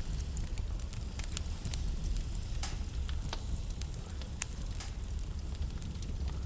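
Wood fire burning in a fireplace: a steady low rumble and hiss with frequent irregular crackles from the burning logs and a few louder pops.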